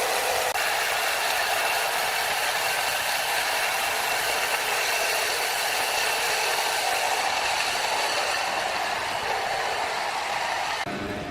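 Sawmill machinery running steadily: a dense hiss with faint steady tones that stops abruptly just before the end.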